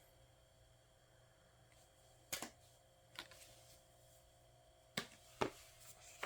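Album photocards and inserts being handled: a few short, light clicks and taps, about four in all, over a faint steady room hum.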